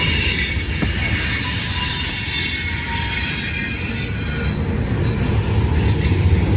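CSX freight cars rolling past close by: a steady heavy rumble of wheels on the rails, with thin high-pitched wheel squeal over it.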